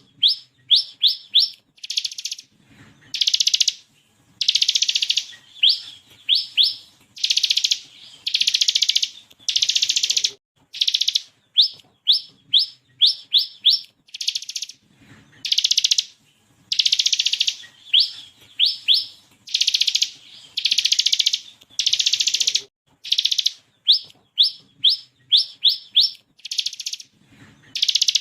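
Bar-winged prinia (ciblek kristal) singing in a repeating pattern. Dense buzzing bursts, each under a second long, alternate with quick runs of three to five sharp, rising chirps.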